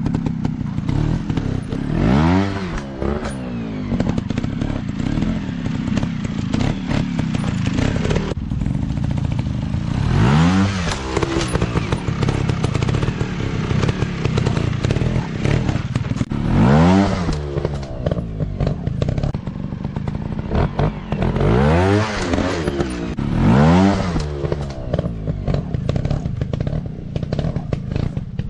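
Dirt bike engines running, with several sharp revs that rise and fall in pitch over a steady engine rumble.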